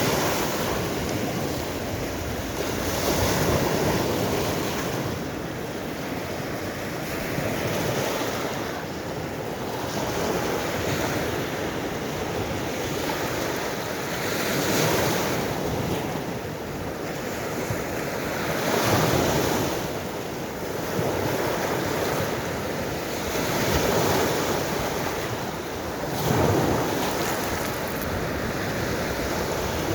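Waves of the Baltic Sea surging in one after another, swelling every few seconds, with wind rumbling on the microphone.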